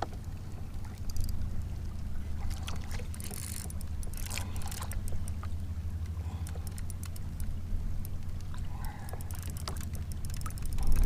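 Small knocks and clicks of water and gear against a kayak's hull, scattered over a steady low hum.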